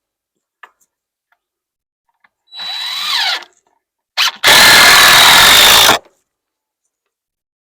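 Power drill run in two bursts: a short, softer whir with its pitch sliding about 2.5 seconds in, then a loud, steady run with a high whine for about a second and a half that cuts off sharply.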